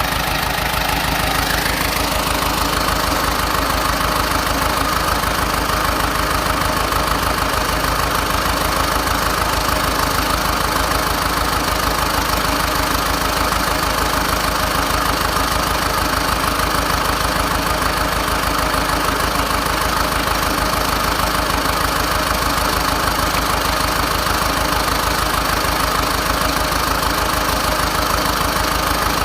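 Diesel engine of a small crawler bulldozer running steadily, with a fast, even chugging pulse.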